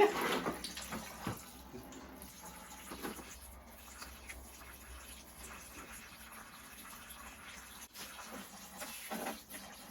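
Engine coolant (antifreeze) trickling out of a disconnected hose into a container, a faint steady pouring with a louder splash right at the start.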